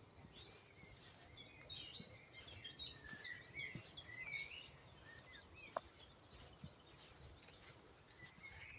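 Faint woodland birdsong: several small birds chirping and trilling in quick high notes, busiest in the first half.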